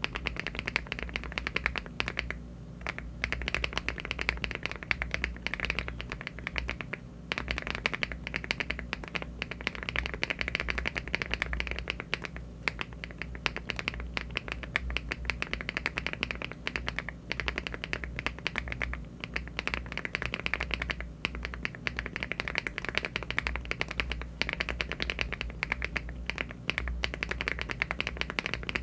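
Typing on a LEOBOG Hi75 aluminium mechanical keyboard fitted with HMX Caramel Pudding linear switches (52 g) and Cherry-profile keycaps. Fast runs of key clacks are broken by brief pauses every few seconds, over a low steady hum.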